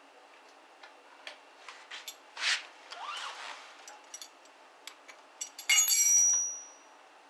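Scattered light clicks and clinks of small hard objects, with a louder clatter about six seconds in that leaves a brief high ringing tone.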